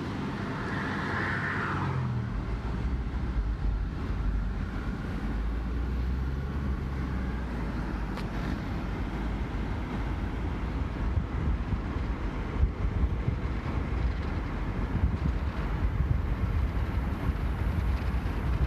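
Car driving, heard from inside: a steady low engine and road rumble that grows more uneven in the second half.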